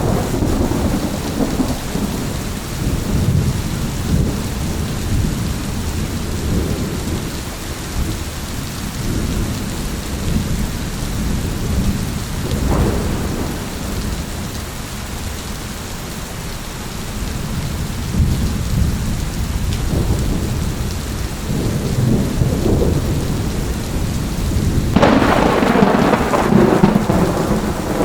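Steady rain with thunder rumbling and rolling throughout; a louder, sharper thunderclap breaks in near the end and rumbles on.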